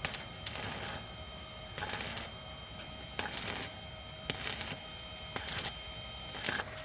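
Electric arc welding in short tack-weld bursts: seven brief spells of crackling hiss, each under half a second, a second or so apart. A faint steady hum runs underneath.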